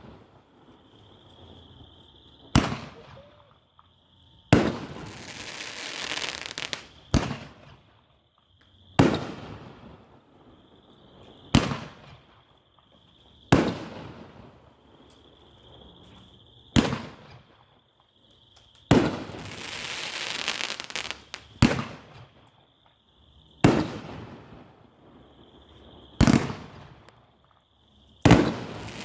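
Two-inch ten-shot rack of aerial firework shells going off one after another: a sharp boom every two to three seconds, several of the breaks followed by a crackling hiss lasting a second or two.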